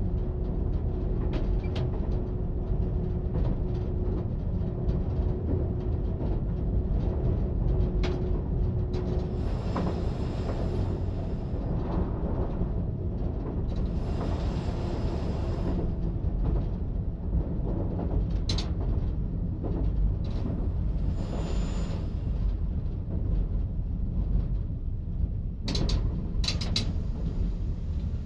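Diesel multiple unit running at speed, heard from the cab: a steady low rumble of engine and wheels on the rails, with occasional sharp clicks. A steady hum carries through the first nine seconds or so, then fades.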